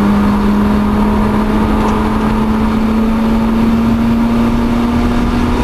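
2004 Mazda RX-8's twin-rotor Renesis rotary engine running hard at high revs under full throttle, heard from inside the cabin. Its steady note climbs slowly in pitch as the car gathers speed, over tyre and wind noise.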